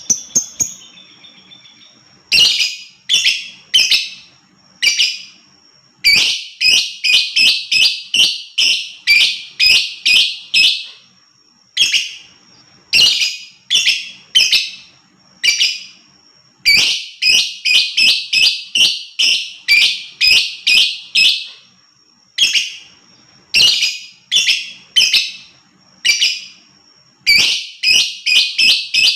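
Lovebird chattering in runs of short, harsh, high-pitched calls, about three to four a second, each run lasting a few seconds with brief pauses between.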